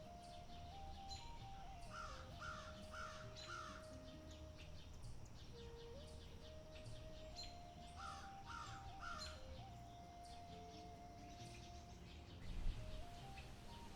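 A crow cawing in two series, four caws and then three, over a slow, soft melody of held notes, with faint bird chirps. A low thump near the end.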